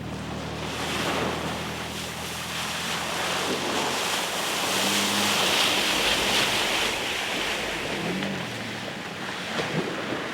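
Rushing water spray and wind on the microphone as a skimboard is towed behind a truck through shallow lake water, loudest in the middle, with the truck engine's low hum underneath.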